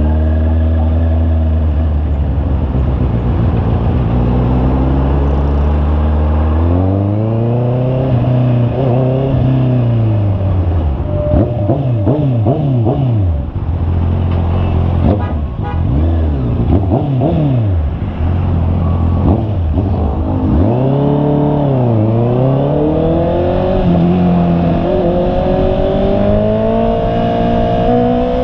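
Honda CB650R's inline-four engine running under way. Its pitch holds steady at first, then repeatedly climbs and drops as it revs up through the gears and eases off, with a run of quick rises and falls in the middle and a long climb near the end.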